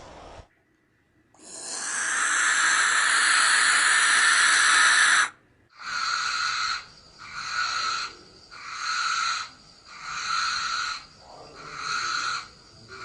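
A long, breathy hissing screech that swells for about four seconds and stops abruptly, followed by six shorter hisses in an even rhythm, a little more than a second apart.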